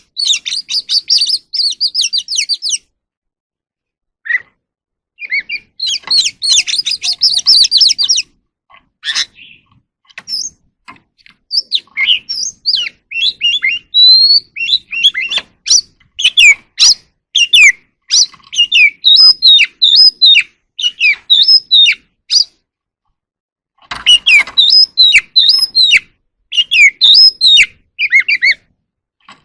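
Oriental magpie-robin singing: bursts of rapid, high chattering and varied whistled phrases that sweep up and down, broken by pauses of a second or two.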